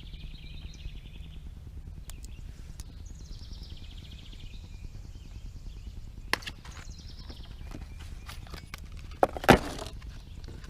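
Scooter parts and packaging being handled during unboxing: rustling and scraping, with a knock about six seconds in and a few sharp knocks, the loudest, about nine and a half seconds in.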